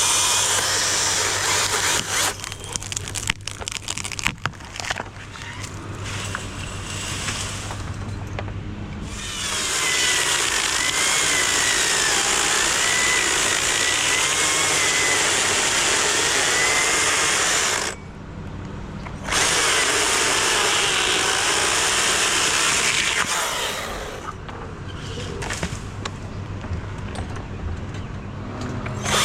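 Husqvarna chainsaw at full throttle in long cuts, dropping to a lower, uneven run with sharp clicks for several seconds after the first two seconds and again near the end, with a short dip about eighteen seconds in.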